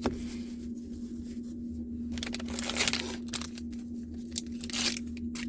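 A trading-card booster pack wrapper being torn open at its pull tab and crinkled, in a few rustling tearing bursts, the longest about two and a half seconds in. A steady low hum runs underneath.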